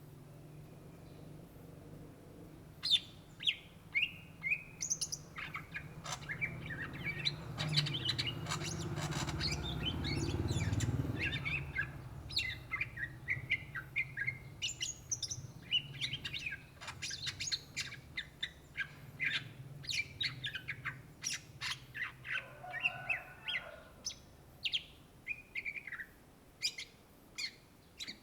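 Greater green leafbird (cucak ijo) singing a long, fast run of sharp chirps and whistled notes. A low rumble swells and fades in the middle.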